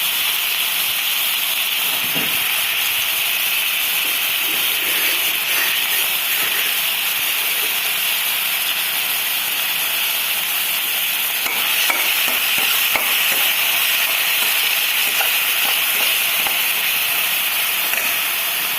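Chopped onion, green chilli and ginger frying in a little oil in a kadai: a steady sizzle, with a few light scrapes as they are stirred.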